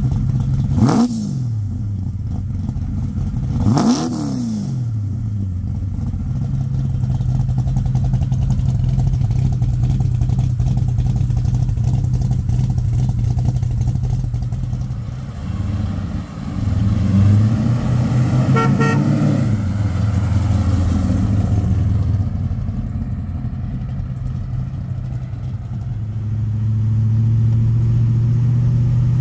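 A 1971 Chevrolet Chevelle's 572-cubic-inch V8, breathing through long-tube headers and a dual 3-inch exhaust with H-pipe and Magnaflow mufflers, running at idle. It is blipped twice, about one and four seconds in, and revved again for a couple of seconds a bit past halfway, settling back to idle each time.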